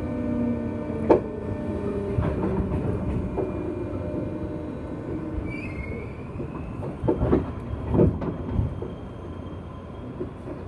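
Inside a JR West 201 series electric train's motor car as it slows: the whine of its thyristor-chopper traction equipment fades out early on, then the wheels knock over rail joints a few times while the running noise dies down.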